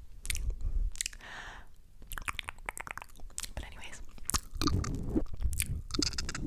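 Close-miked ASMR mouth sounds: wet licking, smacking and tongue clicks right on the microphone, coming irregularly and growing denser in the second half.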